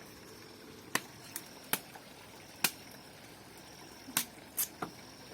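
Dry firewood snapping: about eight short, sharp snaps at uneven intervals over a low, steady hiss.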